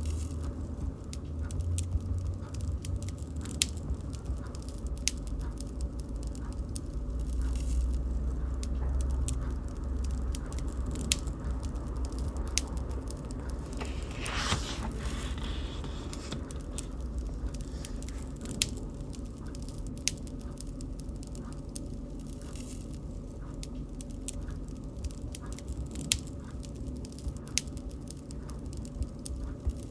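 Wood bonfire crackling: scattered sharp pops and snaps over a low rumble of the burning fire, with a brief hiss about halfway through.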